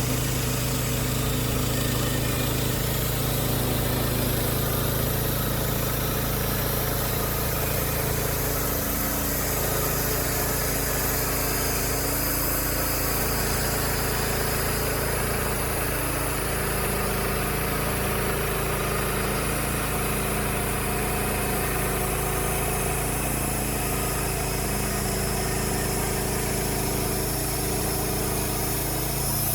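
Wood-Mizer LX55 portable band sawmill's 14 hp engine running steadily.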